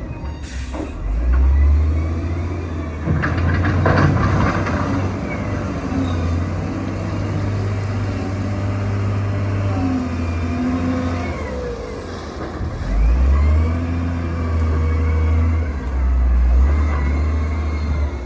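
Heavy diesel earthmoving machine's engine running and revving up and down under load, with a louder noisy burst about four seconds in.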